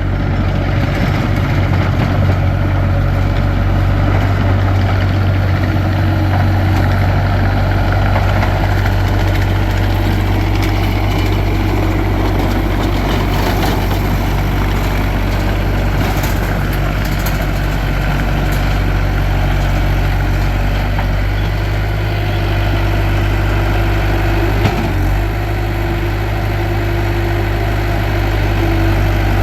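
Bobcat T300 tracked skid steer loader's 4-cylinder diesel engine running steadily at idle, with one brief knock about three-quarters of the way through.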